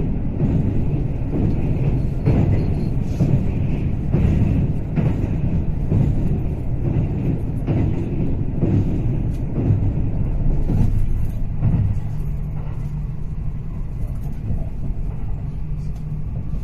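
Train running on rails: a steady low rumble with regular clacks of the wheels over rail joints, which thin out in the last few seconds.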